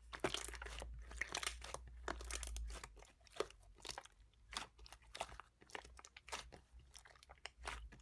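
Slime being squished and worked by hand, making irregular crackling clicks and pops.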